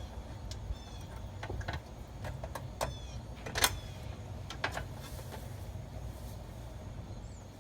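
Scattered light clicks and knocks, some with a brief metallic ring, as small hardware is handled during reassembly, over a steady low hum. The loudest knock comes a little past halfway.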